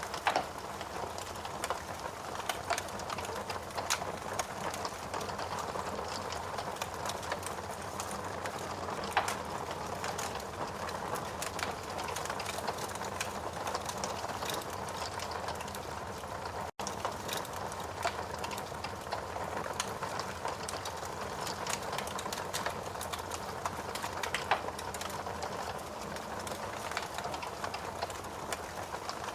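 Steady rain with a wood fire crackling over it in scattered sharp pops and snaps. The sound cuts out for an instant about seventeen seconds in.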